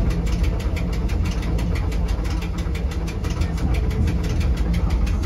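Electric Rigi rack-railway train running, heard from inside the driver's cab: a steady low rumble with a regular clicking about six times a second.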